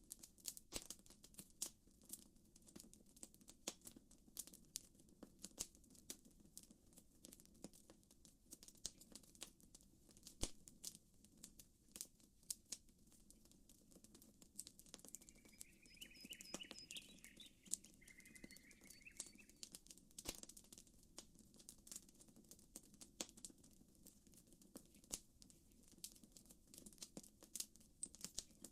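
Campfire crackling, with dense irregular pops and snaps over a soft low wash of lapping water. A bird chirps in two short bursts a little past the middle.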